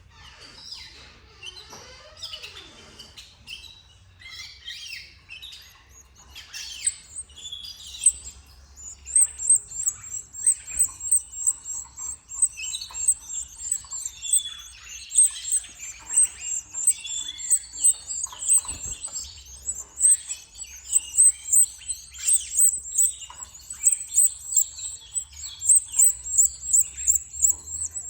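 Canaries calling at the nest: scattered chirps at first, then from about eight seconds in a steady run of rapid, high-pitched cheeping, several calls a second, typical of nestlings begging.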